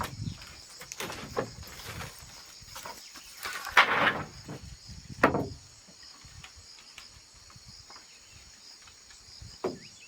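Insects chirring steadily and high-pitched in the background. A few sharp knocks and scrapes come in the first half, the loudest about four seconds in.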